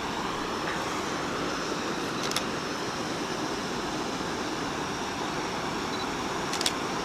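Steady rush of a creek and waterfall running high with water, with a faint click twice.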